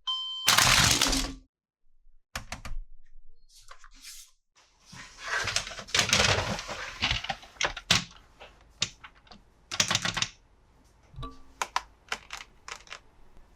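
Plastic toy parts and packaging being handled: a string of clicks, snaps and taps with bursts of rustling. A brief electronic beep from the toy sounds right at the start.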